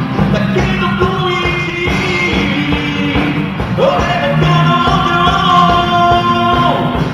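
Rock and roll band playing with a sung vocal line over a steady beat.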